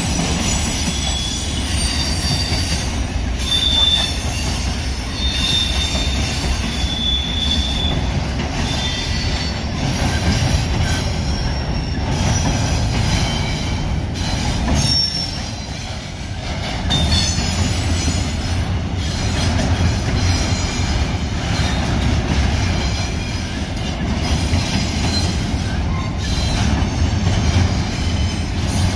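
Double-stack intermodal freight cars rolling past with a steady low rumble of steel wheels on rail, broken by high-pitched wheel squeals that come and go.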